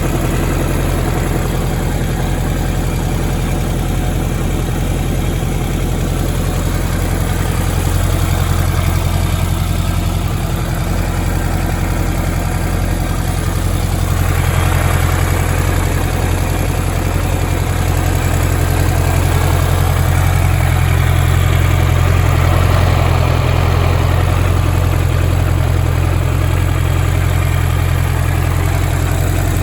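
Kawasaki Z1000R2's 998 cc air-cooled inline-four idling steadily.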